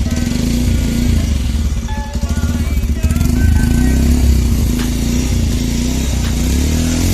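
Bajaj Pulsar 125's single-cylinder engine running steadily through its exhaust, with music playing over it.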